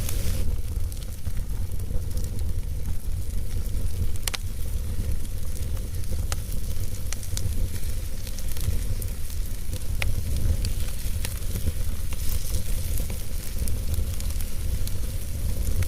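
Wood fire burning in a fireplace: a steady low rumble of flames with scattered sharp crackles and pops from the burning wood, a few seconds apart.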